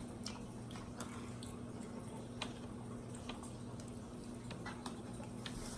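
Quiet eating: faint, scattered small clicks and mouth sounds of chewing and utensils, over a steady low hum.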